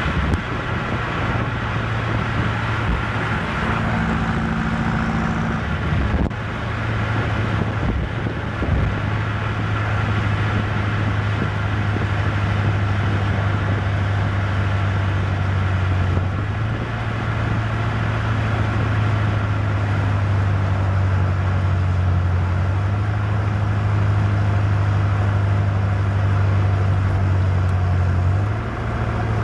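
BMW M8 Competition's twin-turbo V8 running at a steady cruise, its low engine note shifting in pitch a few times and easing off near the end, over steady tyre and road noise.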